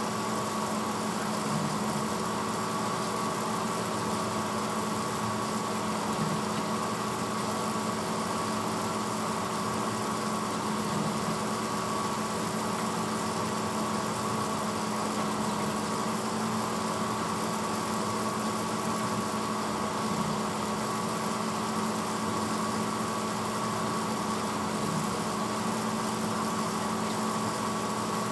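1986 Hotpoint Potwasher dishwasher running mid-cycle: a steady motor hum with water spraying inside the tub.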